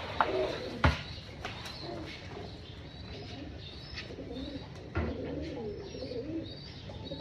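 Domestic pigeons cooing, the calls becoming denser in the second half. A few sharp knocks come through, the loudest near the start and another about five seconds in.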